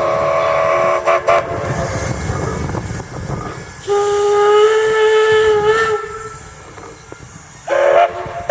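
Steam locomotive whistle blowing: a short blast at the start, a steady blast of about two seconds in the middle, and another short blast near the end, over the low rumble of the train.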